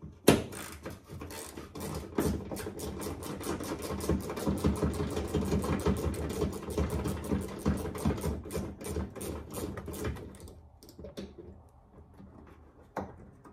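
Hand socket ratchet clicking rapidly for about ten seconds as a bolt under the fender is backed out, then a single knock near the end.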